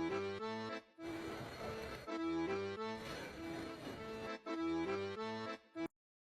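Background music with an accordion-like melody of short notes, which cuts off abruptly near the end into silence.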